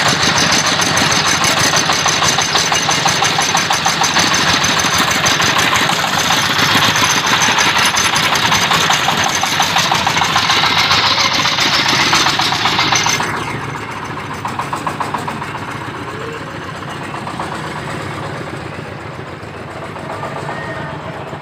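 Engine-driven corn sheller running loud, the engine's rapid firing under a harsh, dense rattle and hiss. About two-thirds of the way through the sound drops sharply in loudness and the harsh high hiss fades, leaving a quieter steady engine run.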